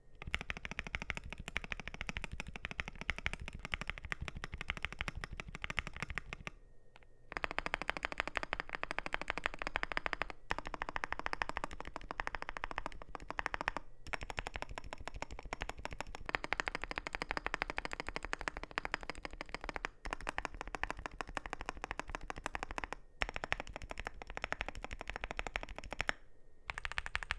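Fast, continuous typing on a NuPhy GEM80 mechanical keyboard with linear NuPhy Raspberry switches and PBT doubleshot keycaps: a dense run of key clacks, with a brief pause about seven seconds in and a few shorter gaps later.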